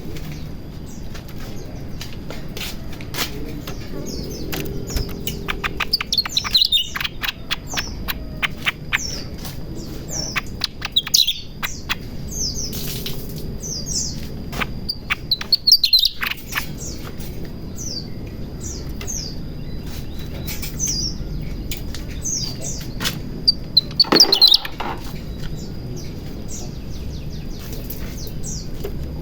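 A cucak ranting in breeding condition calling: a long run of rapid sharp chirps and short falling notes, with louder bursts several times and the loudest about 24 seconds in.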